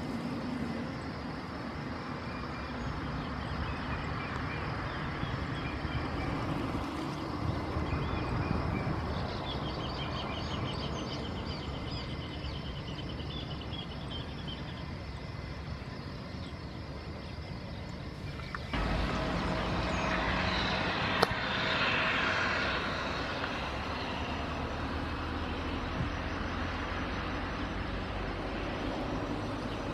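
Jet engines of an Airbus A319 running at low power while taxiing: a steady drone that turns suddenly louder about 19 seconds in.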